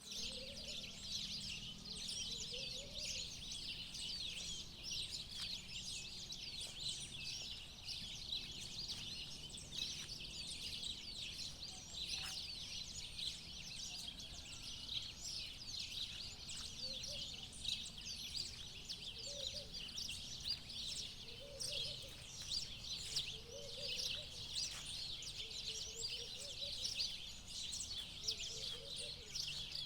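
Dawn chorus of many birds, dense high chirping and twittering throughout. From about halfway in, a lower call repeats roughly every second and a half over a faint low hum.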